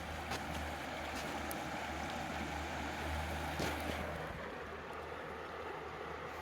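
Steady rush of river water flowing, with a low rumble underneath and a few faint clicks.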